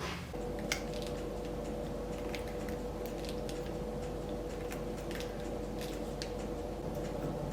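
A steady mechanical hum with a held mid-pitched tone, starting just after the beginning, with scattered light clicks and taps over it.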